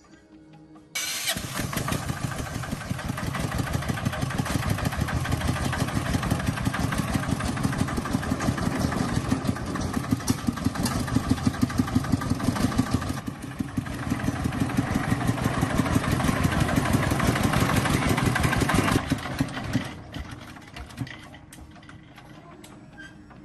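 Tractor diesel engine starting about a second in and running with a rapid, even beat, then shutting off a few seconds before the end.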